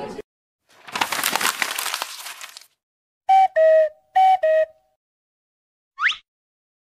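A sequence of separate editing sound effects. First a dense crackling, noisy burst lasting about two seconds. Then a two-note electronic tone, high then lower, played twice, and finally a short, quickly rising chirp.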